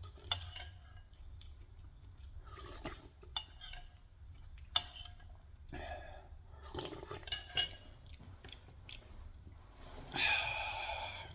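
Eating pumpkin soup with a spoon: the spoon clinks against the bowl several times between slurps and chewing, with a longer, louder slurp or mouth sound about ten seconds in.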